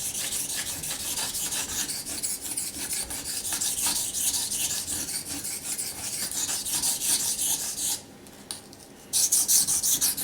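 Steel knife blade rubbed back and forth on a wet Naniwa Chosera waterstone in quick, even sharpening strokes. The strokes stop for about a second near the end, then start again louder.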